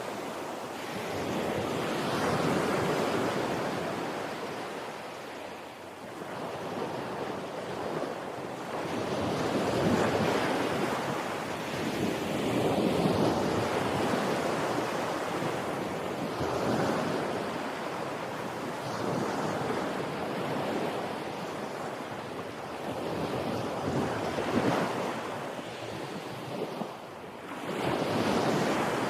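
Ocean surf: waves washing in, the noise swelling and ebbing every few seconds, with some wind.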